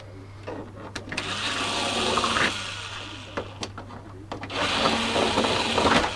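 Power drill boring through a hard plastic car bumper in two bursts of a couple of seconds each. The slow going is blamed wryly on blunt drill bits.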